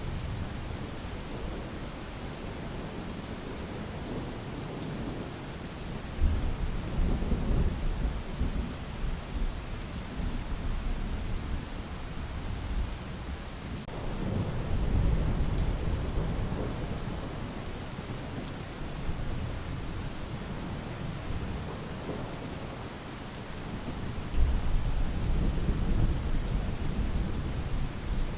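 Steady rain falling, with rolls of thunder rumbling up three times: about six seconds in, around fourteen seconds, and near the end.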